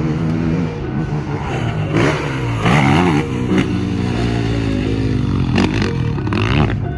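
Motocross dirt bike engine running under throttle, its pitch rising and falling as the rider opens and rolls off the throttle, with a couple of sharp revs in the middle and near the end.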